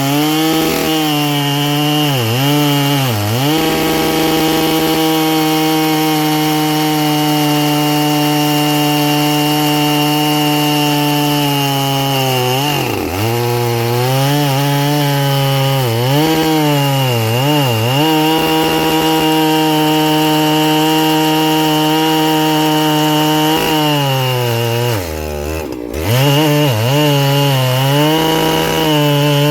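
Ported Husqvarna 3120XP two-stroke chainsaw, its carburettor set a touch richer, running at full throttle while cutting through logs. The revs hold steady for long stretches and dip and recover several times, with the deepest drop about three-quarters of the way through.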